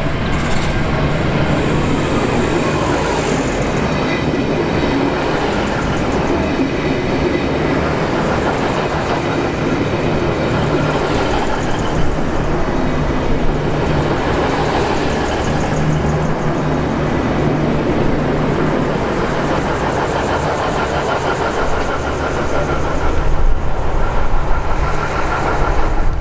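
A V/Line passenger train running through the station: loud, steady rail and running noise with a low steady drone underneath, growing louder near the end.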